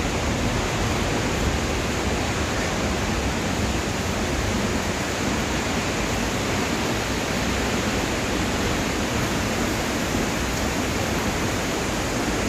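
Waterfall, water rushing in a steady, even hiss with no change.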